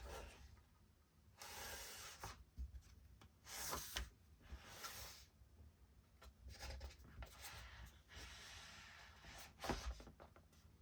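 Faint rubbing and scraping of packaging being handled, in several short strokes, with a couple of light knocks.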